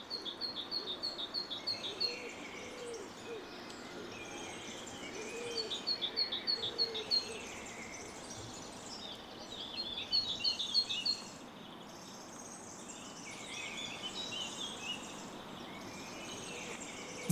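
Birds singing and calling over a steady background hiss: a rapid run of high chirps comes three times, with lower calls mixed in during the first seven seconds, and the birdsong is quieter after about eleven seconds.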